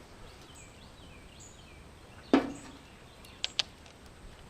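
A single sharp knock about two seconds in, followed by two quick light clicks a second later, over faint bird chirps.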